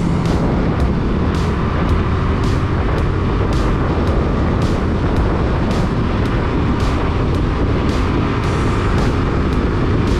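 Wind rushing over an action camera's microphone on a moving motorcycle, over the engine running underneath, a steady loud rumble. A faint tick repeats about twice a second.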